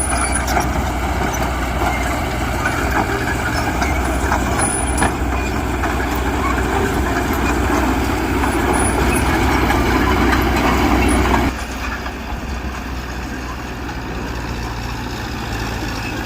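Heavy diesel earthmoving machinery running hard, with scattered knocks. About eleven seconds in the sound drops suddenly to a lower, steadier level, as the engine comes off load.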